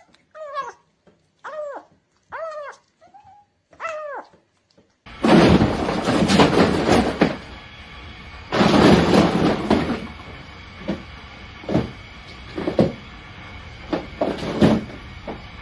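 A cat meowing repeatedly, about five short calls a little under a second apart, each rising and falling in pitch. About five seconds in, the sound changes suddenly to two loud bursts of rushing noise, followed by several short knocks.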